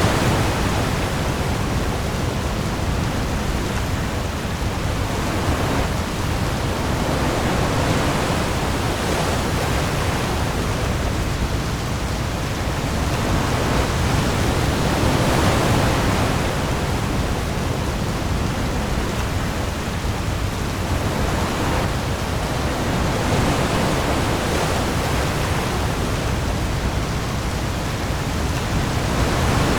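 Heavy rain hissing steadily on the open sea, with waves swelling and falling back every few seconds over a deep low rumble.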